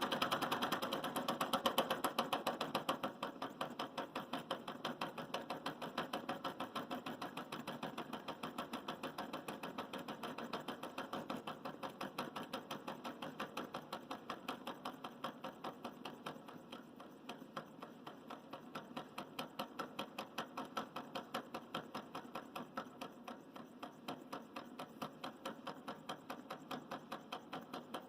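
Small all-metal hot-air Stirling engine running, giving a fast, even clicking of several knocks a second from its moving parts, gradually getting quieter.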